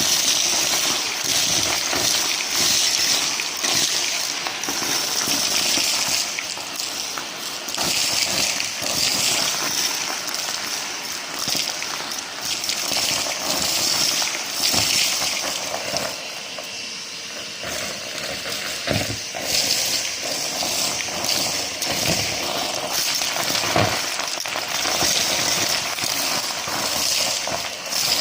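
Numatic James cylinder vacuum running steadily with a high hiss of rushing air, sucking up a dry mess that clicks and rattles in rapid, irregular ticks as bits hit the floor tool and rattle up the hose.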